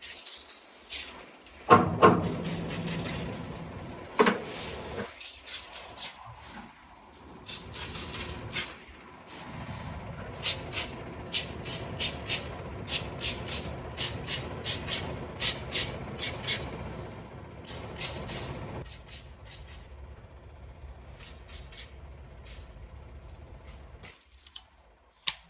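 Hand-tool work on a V8's exposed top end: a few sharp metal knocks, then a run of quick clicks about two a second over a steady hiss.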